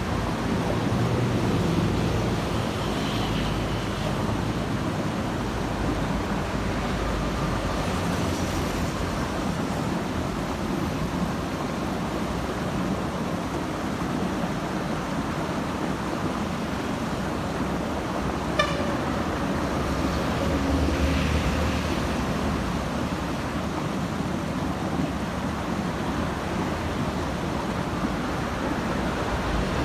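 Steady road traffic with buses and trucks: engines running and tyre noise swelling as heavy vehicles pass. One brief sharp blip about two-thirds of the way through.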